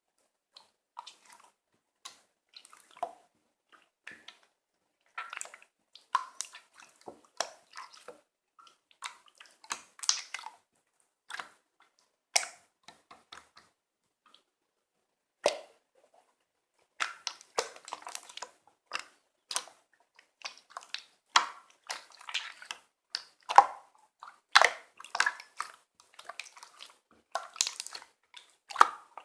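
Slime being squished and folded by hand: irregular wet, sticky clicks and crackles, with a short lull about halfway through.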